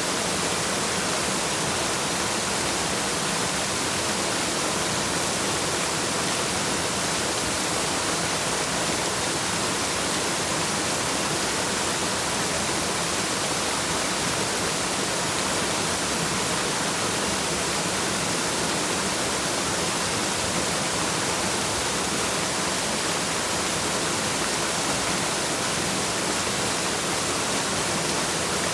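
Waterfall: a steady, unbroken rush of falling water, an even hiss with no change.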